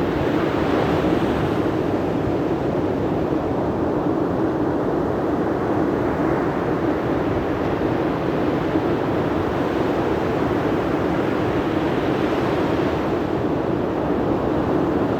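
Steady rush of sea surf and wind, with a wave washing in about a second in and another near the end.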